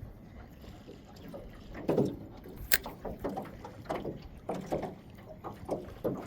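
Small fishing boat on the water: irregular knocks and sloshing against the hull, with one sharp click about three seconds in.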